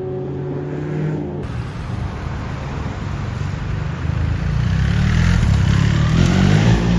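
Porsche engine accelerating, growing louder with its pitch rising over the last few seconds; a steadier engine note in the first second or so breaks off at a cut.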